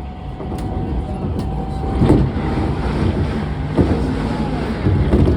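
Seibu Shinjuku Line electric commuter train running, a loud low rumble with a steady thin whine that fades out about two seconds in. A few knocks stand out over the rumble.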